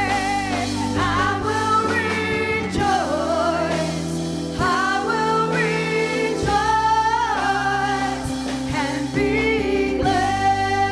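Gospel worship song: voices singing a melody over sustained instrumental accompaniment.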